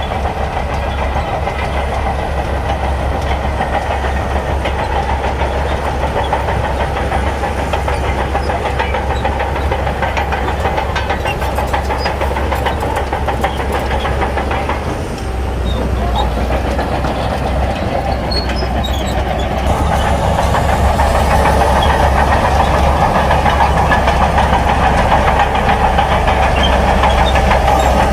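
Heavy diesel earthmoving machinery running and working, with a steady mechanical clatter. The sound dips briefly about halfway through and grows louder for the last third.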